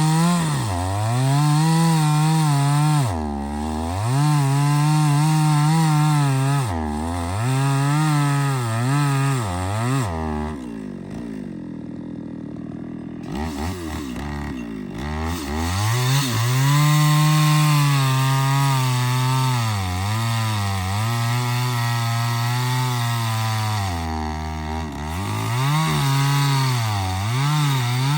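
Two-stroke chainsaw cutting through a large acacia trunk. The engine's pitch repeatedly sags and recovers as the chain bites into the hard wood. A little past a third of the way in it drops to a low idle for a few seconds, then revs back up and keeps cutting.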